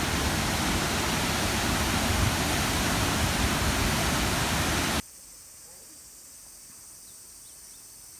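Waterfall rushing as a loud, steady roar that cuts off abruptly about five seconds in, leaving a much quieter outdoor background with a few faint chirps.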